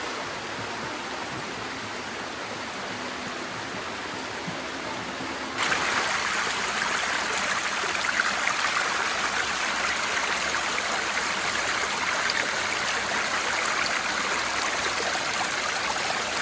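Steady rush of flowing river water, which turns suddenly louder and hissier about five and a half seconds in.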